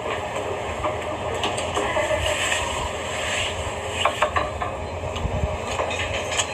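A man chewing a mouthful of udon with fried injeolmi, with a few sharp clicks about four seconds in, over a steady low rumble.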